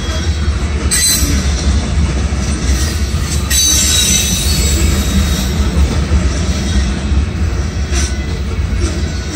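Freight train of covered hopper cars rolling past, a steady low rumble with the wheels squealing at a high pitch briefly about a second in, again more strongly around four seconds in, and once more near the end.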